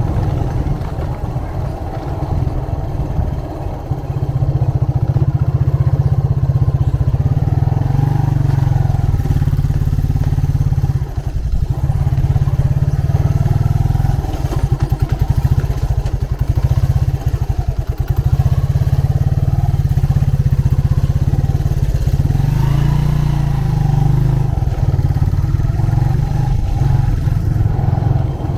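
Motorcycle engine running while riding, a loud low exhaust drone that at a few points drops to a slower, separate beat.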